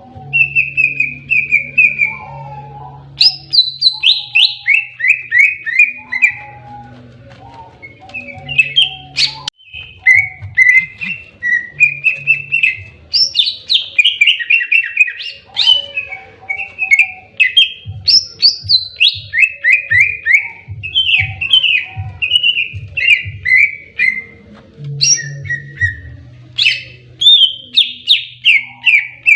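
Cucak ijo (green leafbird) singing in fighting mode: loud, continuous runs of quick downward-slurred whistled notes, changing phrase every second or two without a break.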